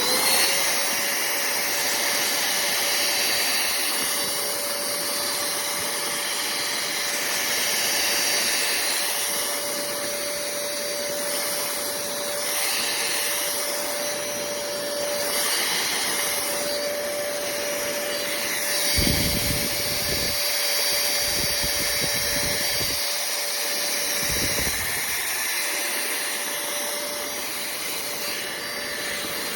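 Cordless handheld vacuum cleaner switching on, its motor spinning up at once to a steady high whine with a rush of air, as the carpet nozzle sucks up paper bits from a sofa. A few low thumps come about two-thirds of the way through.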